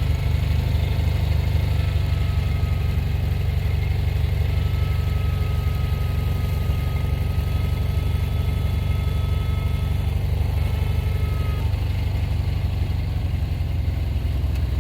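Vehicle engine running steadily at low revs with a deep, even drone, and a faint high whine that holds through the middle and fades out near the end.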